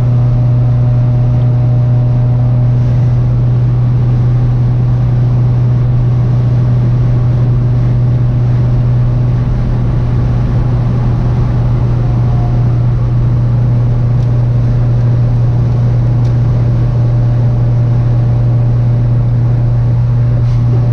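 Honda Civic ED6's D16Z6 four-cylinder engine running at a steady motorway cruise, heard from inside the cabin as a constant low drone over road and wind noise.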